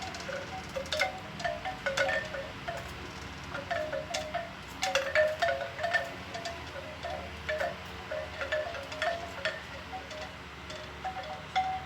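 Bamboo wind chime with its hollow tubes knocking together irregularly in the wind, giving short, hollow, pitched clonks, over a low wind rumble.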